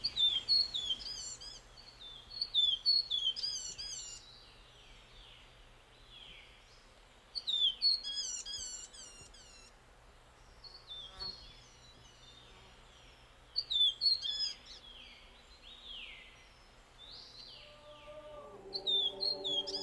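A small forest babbler-family songbird singing in short bursts of quick, high, slurred whistled notes, repeated four times with pauses between. Near the end a low held musical chord comes in.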